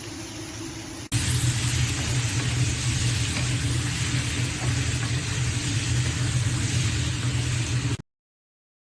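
Food frying in a HexClad hybrid wok: a loud, steady sizzle with a low hum beneath it. It starts abruptly about a second in after a quieter stretch and cuts off suddenly near the end.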